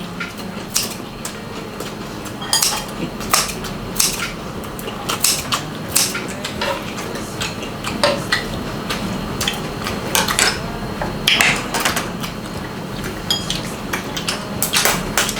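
Eating utensils clinking and tapping against bowls and plates during a meal, in many irregular, sharp clicks, some with a brief ring.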